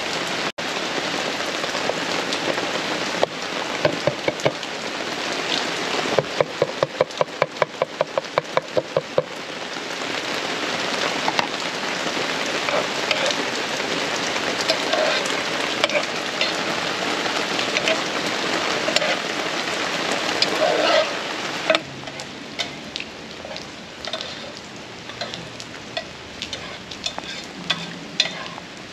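Onions, tomatoes and sweet peppers sizzling in a pot while a metal spoon stirs and scrapes them, with a quick run of about a dozen taps of the spoon on the pot about six seconds in. The sizzle drops lower for the last several seconds.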